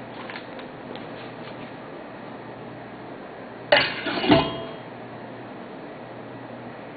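A metallic clatter about four seconds in: stainless-steel fire-pit parts knocking together, two quick clanks with a short ring. A steady hiss lies under it, with a few faint light clicks near the start.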